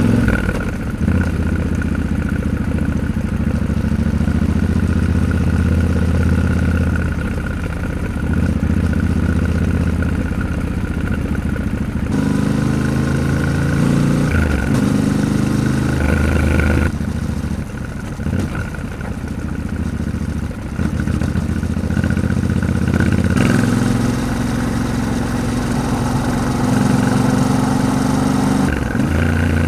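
Yamaha Ténéré 700's parallel-twin engine running on the move, its pitch rising and falling with the throttle and changing abruptly a few times.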